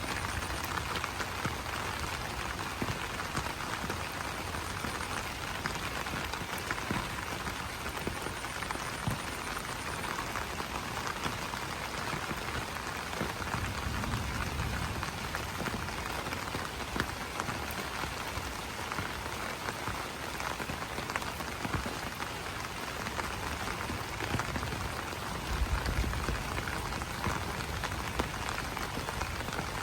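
Steady rain pattering on broad banana leaves: a dense, even patter of many separate drop hits. A brief low rumble comes through twice, about halfway and near the end.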